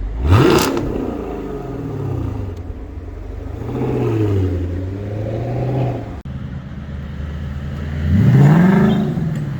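Sports car engine revving with the car stationary: a sharp rev blip right at the start falls back to idle, then a slower rev rises and falls, and near the end another quick blip rises and drops away.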